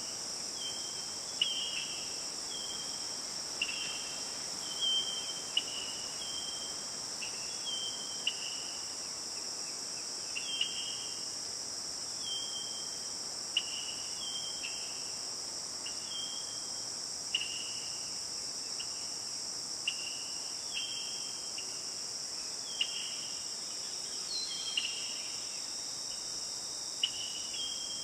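Steady high-pitched drone of a tropical forest insect chorus, with short chirping notes repeating irregularly about once a second, over the faint rush of a forest stream.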